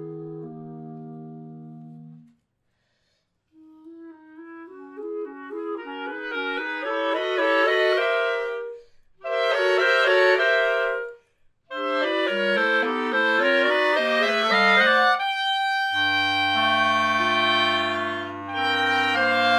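Clarinet quartet playing: a held chord ends about two seconds in and there is a short silence. Then fast rippling runs of notes build in loudness, broken twice briefly, and close into a sustained full chord with low notes underneath near the end.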